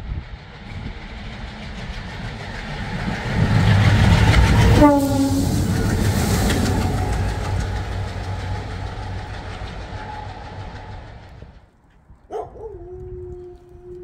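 A pair of MLW diesel locomotives passing close by, engines running and wheels clattering on the rails. The sound swells to its loudest about four seconds in, with a short horn note that drops in pitch as they go by, then fades. Near the end a steady two-note horn begins.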